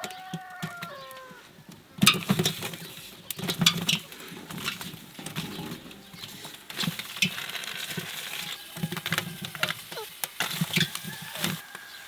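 A short run of gliding bird calls, like a chicken clucking, in the first second or so, then a string of irregular knocks and clatter.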